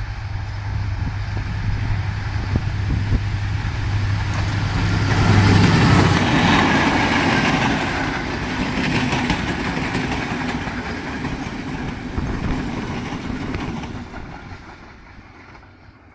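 A Class W3 diesel locomotive hauling a train of Chinese-built carriages passes by: the engine drone builds to its loudest about six seconds in, then the rolling noise of the wheels and carriages fades away.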